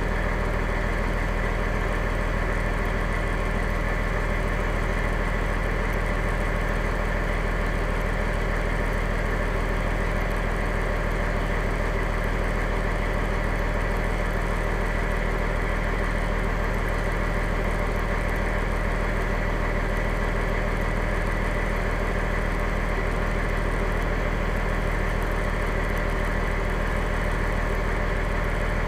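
Fire engine's engine idling steadily, an unchanging low hum with no revving.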